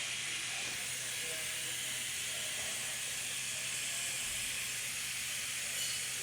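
Steady hiss with a low hum underneath: even background noise of the workshop, with no distinct tool or mechanical event standing out.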